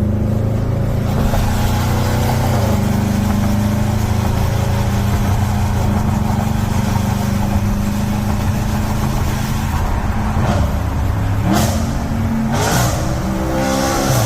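First-generation Audi RS5's V8 through a Capristo aftermarket exhaust, running steadily in a tunnel. Twice, at about eleven and a half and about twelve and a half seconds, it gives a short sharp rev flare as it downshifts, then pulls with the pitch rising.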